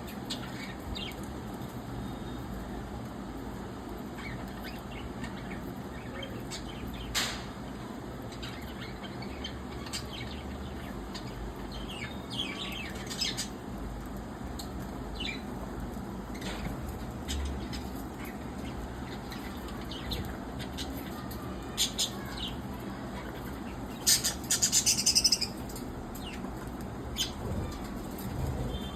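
A budgerigar colony with scattered short chirps and wing flutters over a steady low background, and a louder burst of several calls together about twenty-four seconds in.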